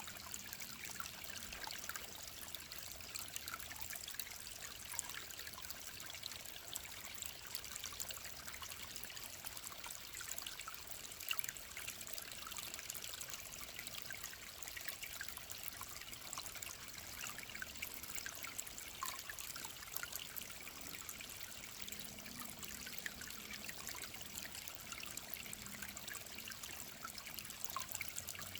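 A clear mountain stream trickling and babbling over stones, a steady run of water with small bright splashes.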